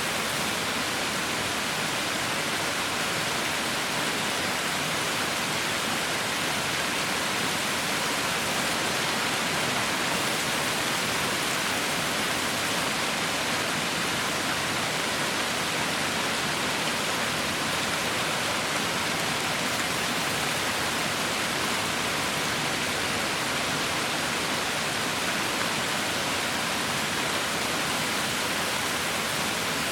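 Heavy rain falling steadily, an even, unbroken hiss with no thunder or separate drops standing out.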